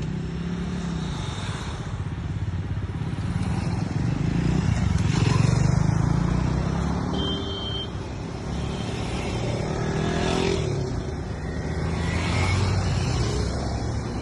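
Motorcycle engine running, growing louder about four to seven seconds in and again near the end.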